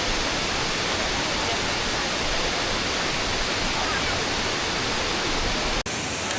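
Waterfall: a loud, steady rush of falling water. Near the end it drops out for an instant and comes back thinner, with less low rumble.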